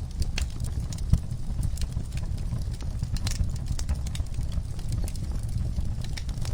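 Wood fire burning in a fireplace: irregular sharp crackles and pops over a steady low rumble, with one louder pop about a second in.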